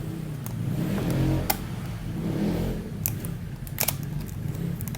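Sharp clicks and handling noise from a small phone-lens kit's packaging being opened by hand, four or five distinct clicks, over a steady low drone.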